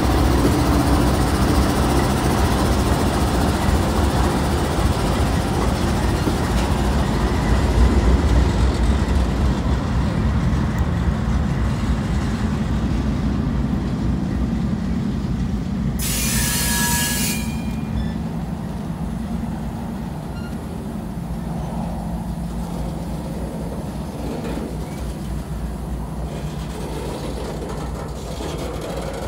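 CSX diesel-electric locomotives passing at close range with a heavy low engine rumble. The freight cars behind them follow with steady wheel-and-rail noise. About two-thirds of the way through there is a brief high screech lasting a second or so, and the rumble then eases as the locomotives move away.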